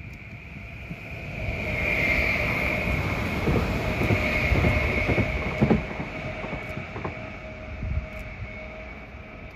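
A train passing: it grows louder over the first two seconds, then runs by with a high steady whine and a few clacks of the wheels, and fades from about six seconds in.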